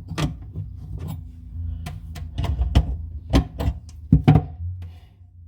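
Irregular sharp clicks and knocks of pliers and metal faucet fittings being worked and tightened under a bathroom sink, over a low rumble, dying away near the end.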